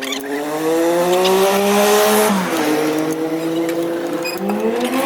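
Bajaj CT 100's small single-cylinder motorcycle engine being revved: the pitch climbs for about two seconds, falls off sharply, holds at a lower speed, then rises again near the end.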